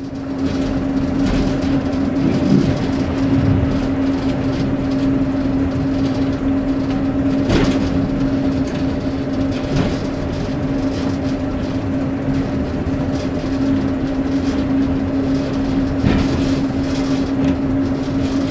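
Class 141 Pacer diesel railbus under way, heard from inside the driver's cab: a steady drone with a constant hum over the running noise. Two sharper knocks come through, one about halfway through and one near the end.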